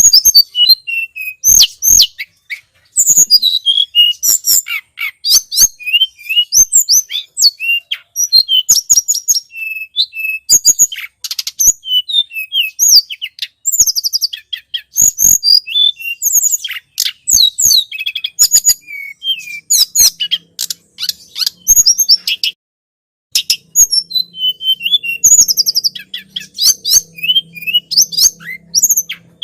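Tledekan gunung songbird calling, a loud, rapid run of high chirps, quick sweeping notes and short trills, with a brief pause a little after two-thirds of the way through.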